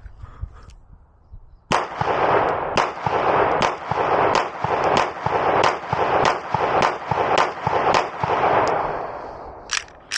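A rapid string of pistol shots, about two to three a second, starting almost two seconds in and stopping around nine seconds, the shots running together in their own echo. Two sharp clicks follow near the end.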